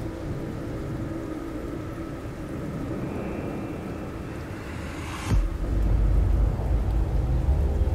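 Horror-film sound design: a low rumbling drone, with a rising whoosh that ends in a sudden hit about five seconds in, after which a deeper, louder rumble holds on.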